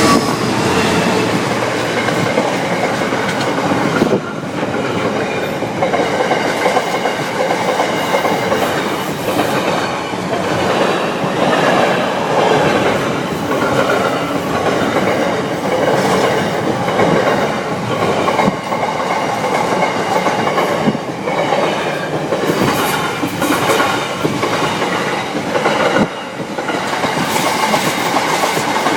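Freight train wagons rolling past over a level crossing, the wheels clattering and knocking over the rail joints in a steady, loud rumble.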